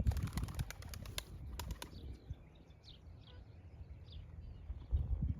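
Pigeon wings flapping in a quick run of claps through the first two seconds, with small birds chirping faintly.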